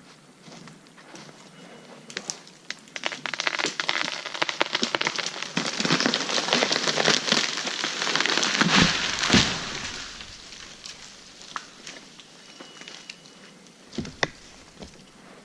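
Wood and branches crackling and snapping as a felled tree comes down through the surrounding spruce, building to a dense crashing, with two heavy thuds a little after the middle, then scattered cracks as it settles.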